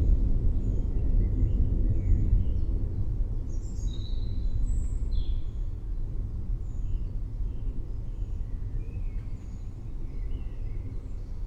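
Low thunder rumble slowly dying away, with small birds chirping throughout.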